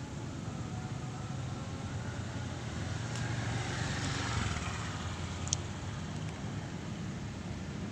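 Steady low hum of motor vehicle traffic, swelling as a vehicle passes about four seconds in, with a single sharp click soon after.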